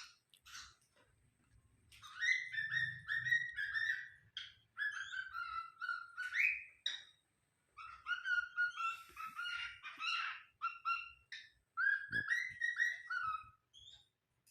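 Bird calling in quick runs of pitched chirps, four bursts of a second or two each with short pauses between.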